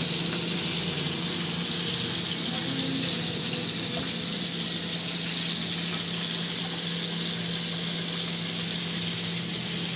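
Steady rushing of running water, with a low steady hum underneath.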